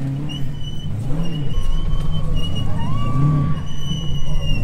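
Motor vehicle engine revving up and down several times, with a high thin whine that comes and goes above it.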